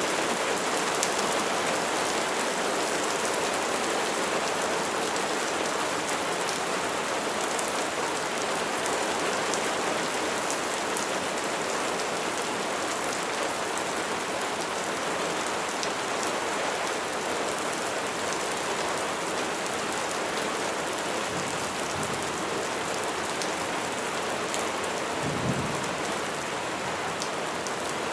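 Steady heavy rain falling, with scattered sharper drop ticks. There is a brief low thump near the end.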